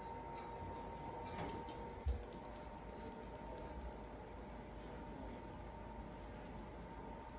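Sugar glider clicking: a fast, rapid run of sharp, high-pitched clicks, the call it gives when looking for its companions. A brief low thump about two seconds in.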